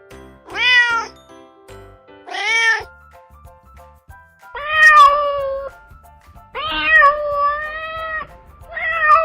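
Domestic cat meowing five times: two short meows, then longer drawn-out ones, the last still going at the end.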